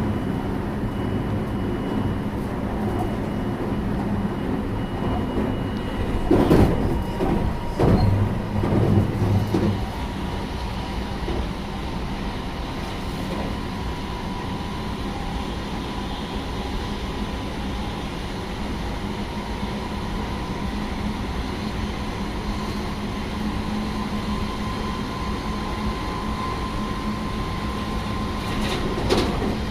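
Running sound inside a JR West 223 series electric train's motor car: a steady hum and rumble of the traction equipment and wheels on the rails, with a steady whine. A few loud knocks about six to ten seconds in and again near the end, as the wheels pass rail joints or points.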